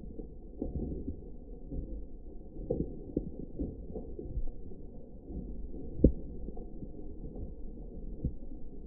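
Heavy rain, heard as a low wind rumble with irregular knocks of drops striking close to the microphone; one louder knock about six seconds in.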